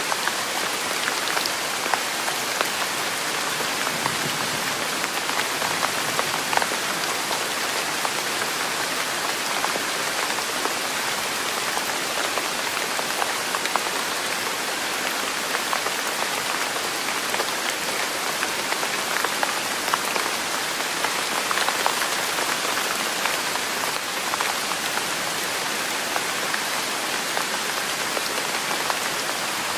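Steady rain falling: an even hiss sprinkled with many small drop impacts.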